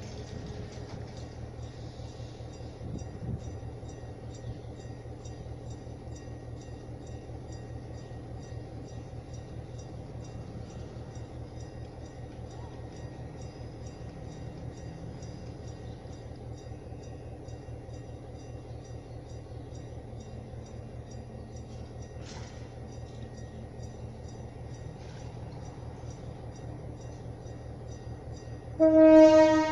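Passenger train standing with its engine running, a steady low drone. Near the end its horn gives one loud blast of about a second.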